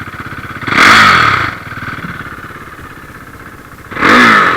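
Engine running with a steady low pulse and revving up twice, about a second in and again near the end.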